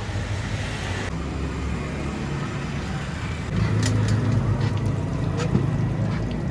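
Roadside traffic: a vehicle engine running nearby, growing louder about halfway through, with a few sharp clicks over it.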